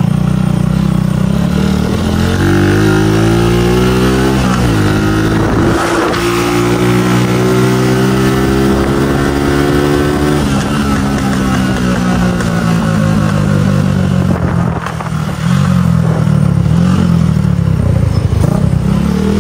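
Small motorcycle engine under hard acceleration, its pitch climbing, dropping at a gear change about four and a half seconds in, and climbing again. About ten seconds in the throttle is shut and the revs fall away, followed by short rises and falls near the end. This is the hard run-up and sudden let-off that the rider says makes the bike sound ugly.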